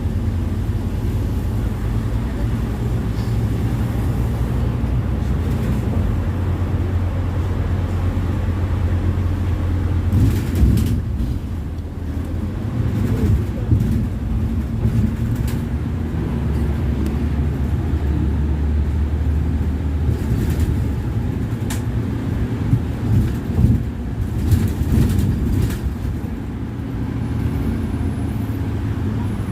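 Scania Citywide GNV city bus with its natural-gas engine running under way, a steady low drone that shifts pitch several times as the engine speed changes, with occasional knocks and rattles.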